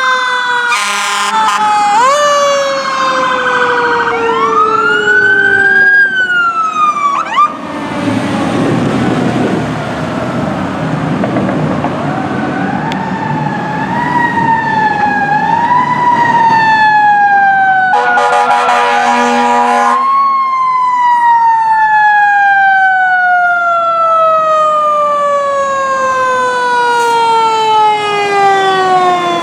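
Fire truck's Q mechanical siren winding up and then coasting down in long falling wails, with two blasts of air horns, the longer about two seconds, and the diesel rumble of the apparatus passing.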